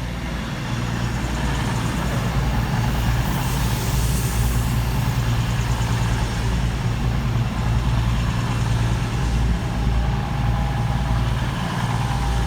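Class 221 Voyager diesel-electric multiple unit arriving at the platform, its underfloor diesel engines running with a steady low drone and a brief hiss partway through.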